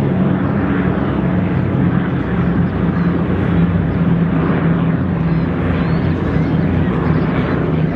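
Airplane engines droning steadily, a continuous low pitched hum with no change in level.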